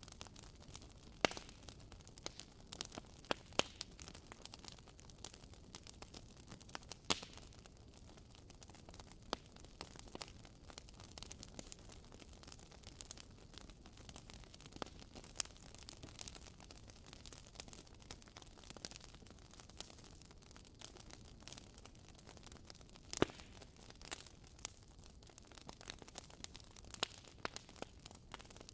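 Wood fire in a fireplace crackling: irregular sharp pops and snaps from burning logs over a faint hiss, with a few louder pops about a second in, around three and a half and seven seconds, and near the end.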